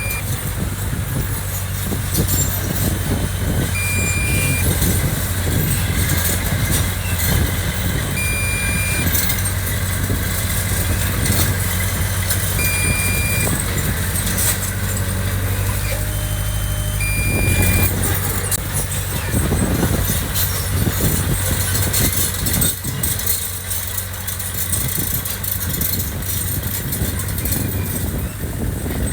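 Diesel engine of heavy construction machinery running steadily, with a backup alarm giving a short high beep about every four and a half seconds.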